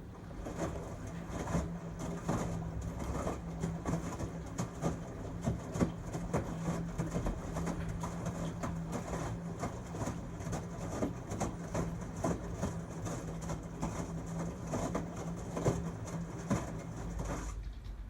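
LG Tromm WD-CR101C front-loading drum washing machine turning its drum in a quick wash cycle: a steady motor hum with many irregular knocks of the laundry tumbling. The hum starts at the outset and stops about a second before the end, as the drum pauses.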